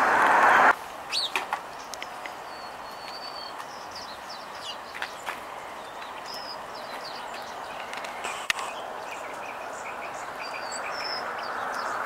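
Songbirds chirping in many short, high calls, with a few sharp ticks, over a faint rushing background that grows louder near the end. A loud rushing noise cuts off suddenly in the first second.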